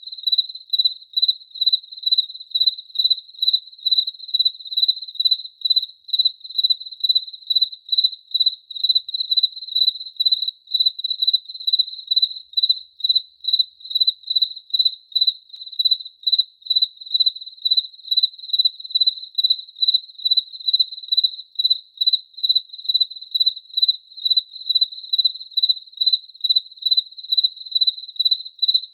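Cricket chirping: a steady run of high, single-pitched chirps, about two to three a second, keeping an even rhythm.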